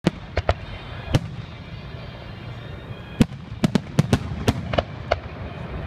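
Aerial fireworks shells bursting: four booms in the first second or so, a pause, then a rapid run of about eight booms from about three seconds in.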